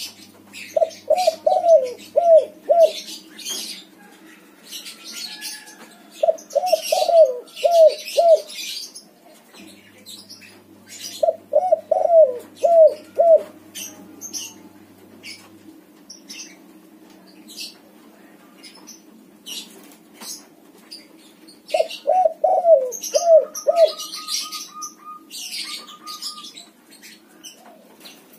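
A white spotted dove (tekukur) cooing: four phrases, each of about five quick, falling coos lasting around two seconds, with pauses between them. Scattered rustling and flapping sounds come between the phrases, over a low steady hum.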